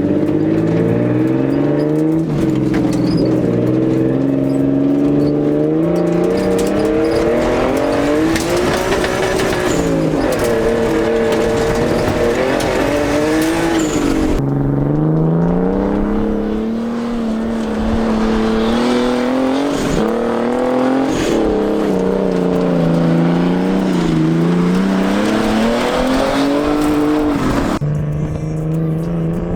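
Turbocharged RB20DET inline-six engine in a Nissan 240SX driven hard on dirt, revving up and down repeatedly as it accelerates, eases off and shifts. The sound changes abruptly a few times along the way.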